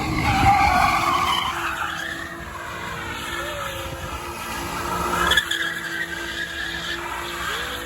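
A car spinning donuts at a street takeover: tyres screeching on pavement over the engine held at steady revs. The screech swells about five seconds in.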